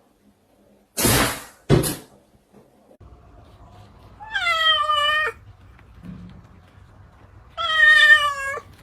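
Domestic cat meowing twice: two long, drawn-out meows a few seconds apart, each holding its pitch and then dropping at the end. Before them come two short noisy bursts.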